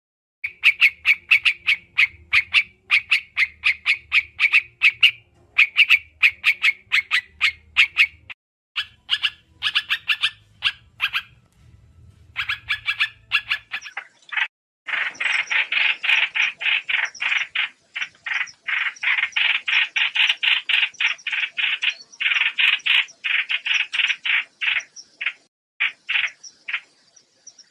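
Common iora calling: runs of short, rapidly repeated chattering notes. The calls break off briefly about halfway through, then resume in a denser, louder run.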